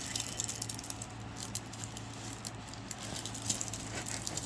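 Light rustling and scattered small clicks as a diamond painting canvas and its packaging are handled, over a steady low hum.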